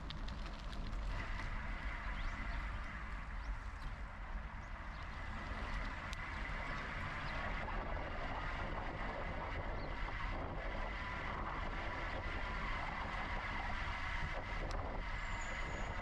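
Wind rushing over the camera microphone with the rumble of a bike rolling along, and a steady high whine that comes in about a second in.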